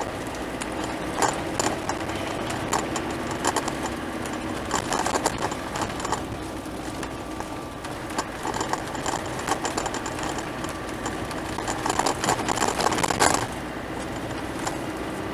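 Camper van engine running while driving, heard inside the cab, with frequent rattles and knocks; a denser burst of rattling near the end stops suddenly.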